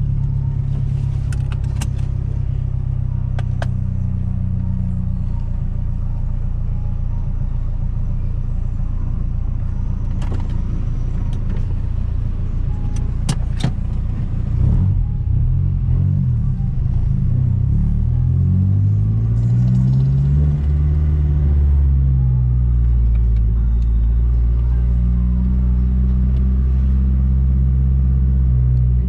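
The big-turbo 2012 Mazdaspeed 3's turbocharged 2.3-litre four-cylinder engine running steadily while driving, with a few sharp clicks in the first half. About halfway through the engine pitch rises and then falls, and after that it runs steadily again.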